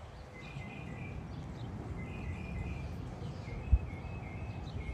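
Small songbird chirping a series of short high notes over a low steady outdoor rumble. A single brief thump comes about three-quarters of the way through.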